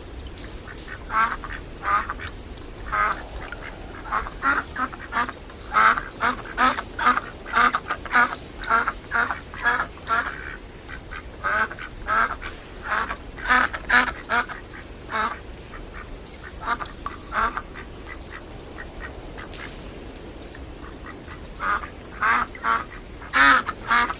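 Ducks quacking: many short calls in quick succession, pausing for several seconds and starting again near the end, over a steady hiss of rain.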